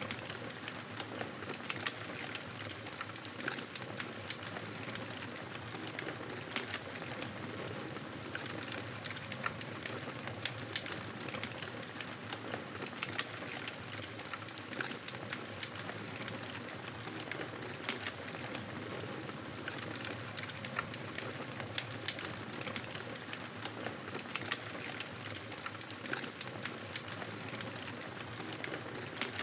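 Wood fire crackling in a fireplace: frequent short, sharp pops and snaps over a steady hiss.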